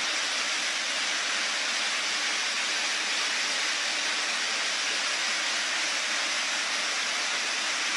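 Steady, even rushing of water from floodwater or heavy rain, with no distinct splashes or knocks.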